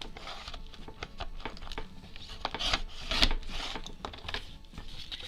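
A paper journal tag being trimmed: rasping, rubbing cutting noise with scattered sharp clicks, loudest about three seconds in.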